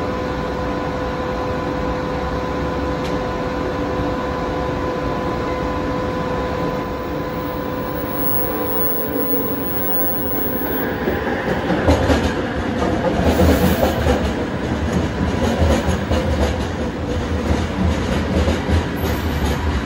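Bombardier Innovia ART 200 light-rail train on the Kelana Jaya Line approaching and pulling into an elevated station. A steady hum holds through the first half. From about halfway the train's running noise builds into a rumble and rattle, loudest in the last several seconds as the cars roll past close by.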